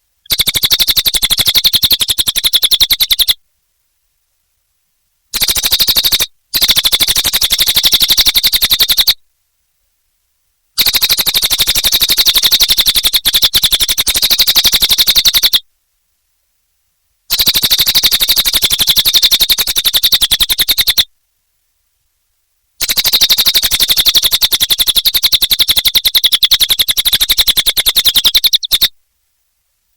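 Cililin bird singing loud, rapid trilling phrases in six bursts of one to six seconds each. Between the bursts the sound cuts to dead silence.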